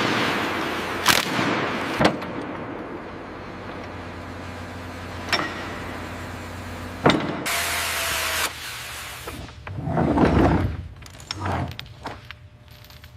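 Mechanical whirring with sharp metallic clicks and knocks. A short burst of hissing comes about seven and a half seconds in, and a low heavy rumble or thud follows about ten seconds in.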